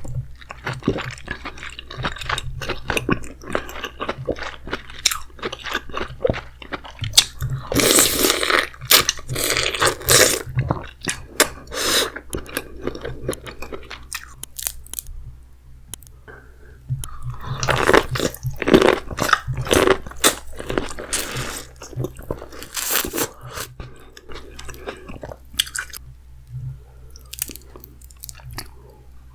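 Close-miked eating of a seafood boil: chewing, biting and crunching in irregular bursts of clicks, with busier stretches and quieter gaps between.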